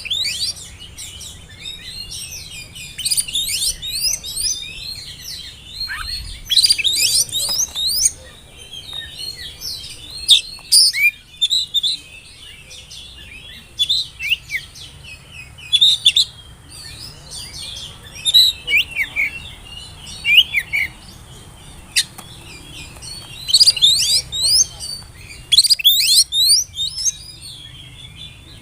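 Oriental magpie-robin singing: a varied run of quick whistled notes and rapid chirping phrases, coming in bursts with short pauses between them.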